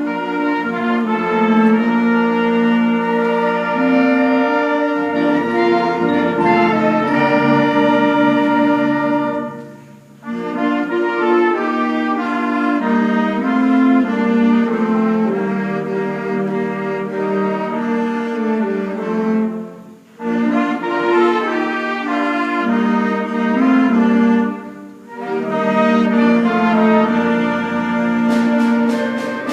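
School concert band playing a slow passage of held chords, the phrases broken by short breaths about 10, 20 and 25 seconds in.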